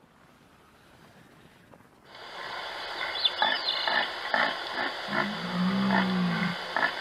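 Red deer stag roaring during the rut: one deep, drawn-out bellow about five seconds in, lasting about a second and a half, after a nearly silent start.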